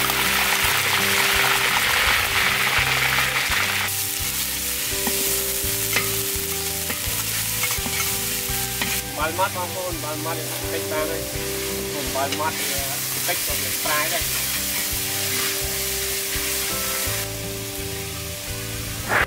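Curry paste sizzling as it fries in hot oil in a large wok, with a metal ladle stirring and scraping through it. The sizzle is loudest for the first four seconds, then settles lower.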